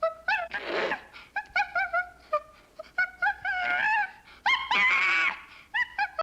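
An animal giving a rapid series of short high-pitched yelps and whines. Two longer wavering cries come about a second in and again around five seconds.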